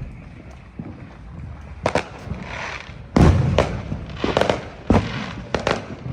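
Fireworks and firecrackers going off in an irregular string of sharp bangs with crackling between them, the loudest bang about three seconds in.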